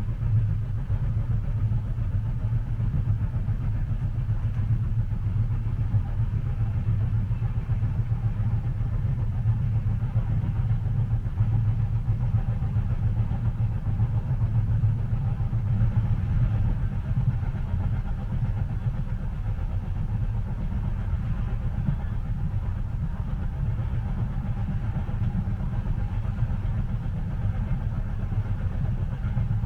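Steady low rumble of a moving train heard from inside the passenger cabin, even and unbroken.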